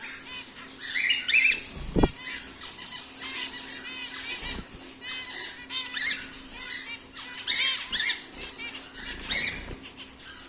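Aviary birds chirping and calling in many short, overlapping calls, with a flutter of wings about two seconds in.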